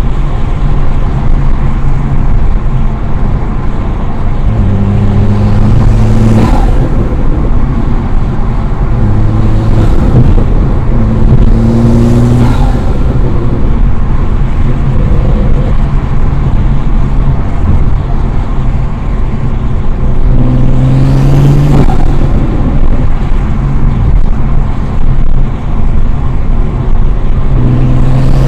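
Turbocharged Toyota Supra engine with an Armaspeed intake, driven in several hard pulls whose engine note rises in pitch. Each pull ends in a short burst of turbo flutter when the throttle is lifted, over a steady engine drone.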